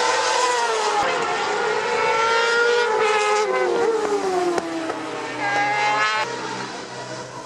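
Racing motorcycles at high revs on the circuit, several engines overlapping, each pitch sliding down as the bikes go by.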